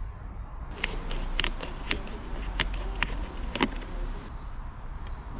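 Engine oil being poured from a plastic bottle into a car engine's filler, with about six sharp clicks and knocks from the bottle being handled, over a low steady hum.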